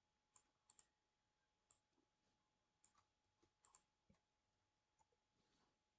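Near silence with about ten faint computer mouse clicks scattered through it, some in quick pairs.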